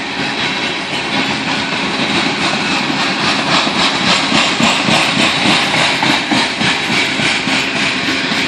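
CSX grain train's freight cars rolling past on the rails, a steady wheel-on-rail noise with faint regular clicks of the wheels in the middle part.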